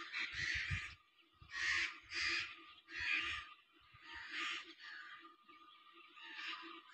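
Birds calling: harsh, noisy calls repeated about every half second to second, over a steady low hum.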